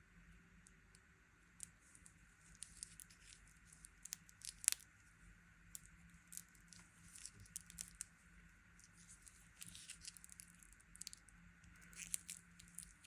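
Faint, scattered clicks, taps and rustles of a Straum Jan Mayen wristwatch being handled close to the microphone, with one sharper click nearly five seconds in.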